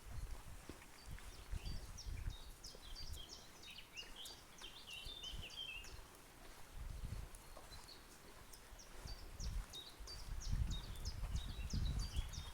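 Small birds chirping and singing, many short high notes and trills overlapping. A low rumble comes and goes underneath and is strongest near the end.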